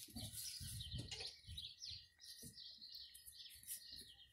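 Small birds chirping faintly, a run of short, quick chirps that slide downward in pitch and repeat throughout. A faint steady high tone and light low rustling sit under them.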